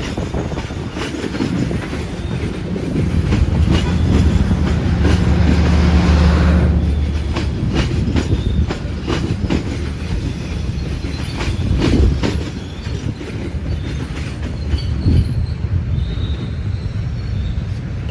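Train passing close by, its wheels clacking over the rail joints, with a deep steady drone about three to seven seconds in.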